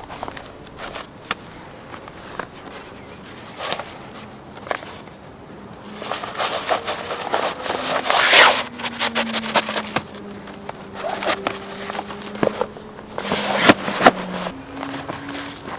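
Wood fire crackling and popping in irregular sharp snaps, with a louder scraping rush about halfway through. From about halfway on a fly buzzes close by, its hum rising in pitch near the end.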